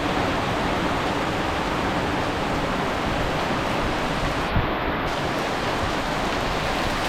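Rain falling steadily in a thunderstorm, a dense even hiss, with one short thump about four and a half seconds in.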